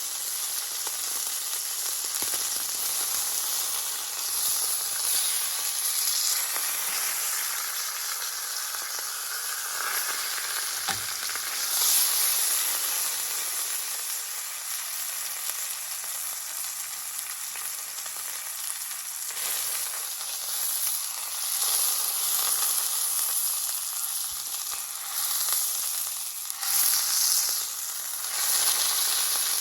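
Beef sizzling in a skillet over a wood fire: a steady hiss that swells and eases every few seconds, with one short knock about a third of the way through.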